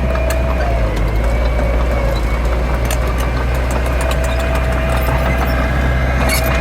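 Heavy diesel construction machinery running steadily, a deep engine rumble with a steady high-pitched whine over it and scattered light clicks and clanks.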